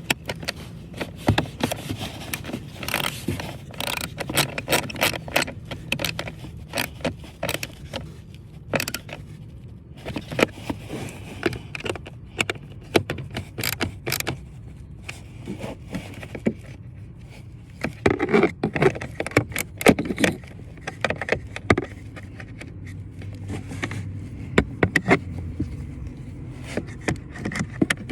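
Hands and tools working on a van's HVAC blower motor assembly: an irregular run of sharp clicks, scrapes and small knocks of tools and parts being handled, over a low steady hum.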